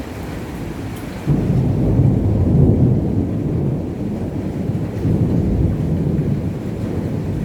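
Thunder rumbling in a rainstorm: over the steady rain a deep rumble swells suddenly about a second in and rolls on.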